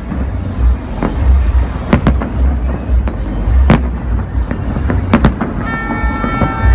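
Fireworks display: sharp single bangs of shells bursting roughly every one to two seconds, two of them close together about five seconds in, over a continuous low rumble. Near the end several steady held tones come in.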